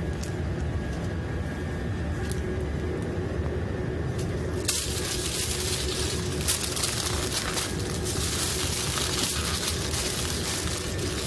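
A steady low machinery rumble with a faint steady hum. About halfway through a hiss comes in and stays, with a few sharp clicks.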